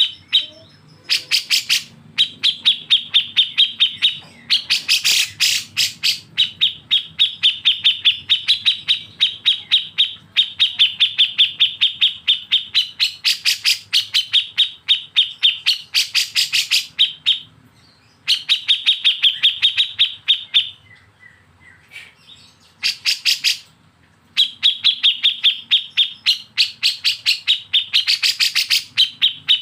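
A songbird's rapid rattling besetan call: fast chattering trills of sharp notes, about ten a second, in bouts of a few seconds broken by short pauses, some notes louder and shriller than the rest.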